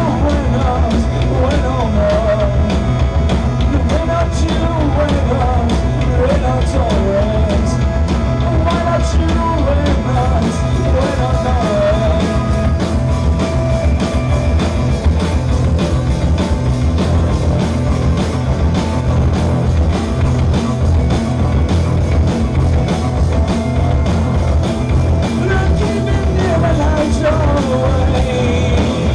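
Loud live rock band playing a dense, driving jam: drums, bass and electric guitars, with a wavering melodic line over the top in the first half and again near the end.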